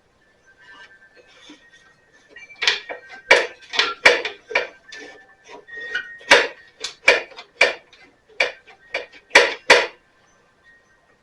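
A run of sharp metallic clinks and clanks, about fifteen separate strikes over seven seconds, like metal tools or parts knocking against metal. The two loudest come near the end.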